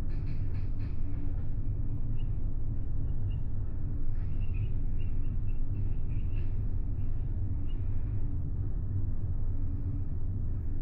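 Steady low rumble of a large car ferry under way, its engines and hull vibration carrying into a passenger cabin, with faint short high squeaks now and then.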